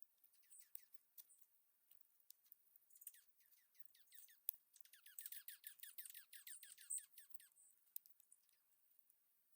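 A songbird singing a fast trill of falling whistled notes for a few seconds near the middle, with scattered faint clicks and one sharper click.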